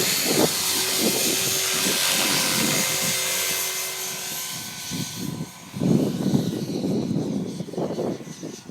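Small battery-electric remote-control helicopter flying, its rotor and electric motor making a steady whirring hiss that fades after about four seconds. Irregular low rumbling buffets come in during the second half.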